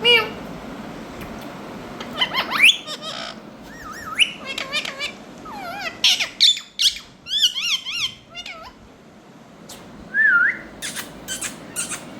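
Indian ringneck parakeet calling: a run of wavering, warbling whistled calls in the middle, a short single call about ten seconds in, and a few sharp clicks near the end.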